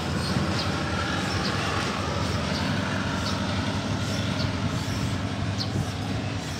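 Diesel train engines at a rail yard: a steady low drone, with short high squeaks about once a second.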